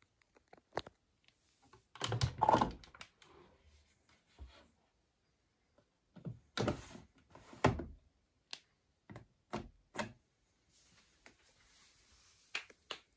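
A series of sharp clicks and knocks, with two clusters of heavier thuds and a faint hiss near the end.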